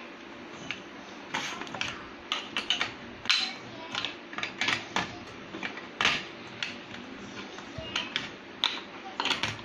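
Plastic Duplo bricks clicking and knocking as they are handled and pressed together: a run of irregular sharp clicks, bunched in short flurries.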